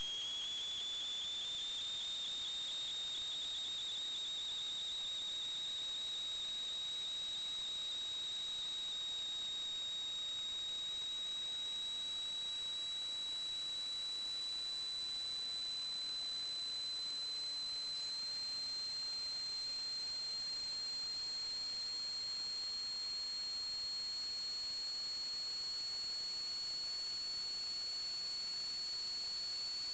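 A steady high-pitched electronic whine over hiss, its pitch creeping slowly upward, with a small step up about eighteen seconds in.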